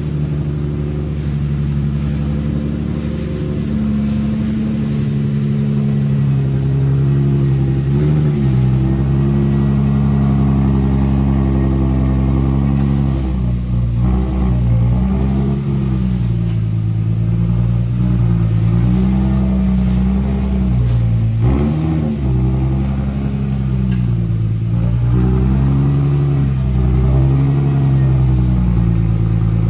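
Nissan 350Z Nismo's 3.5-litre V6 engine running under way, its revs steady for stretches, then dropping and climbing again several times, as with gear changes.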